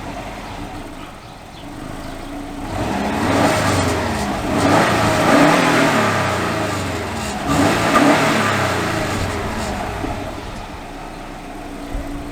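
Subaru Legacy GT's turbocharged flat-four engine, breathing through a newly fitted Magnaflow cat-back exhaust, revved up from idle in two swells and then settling back to idle.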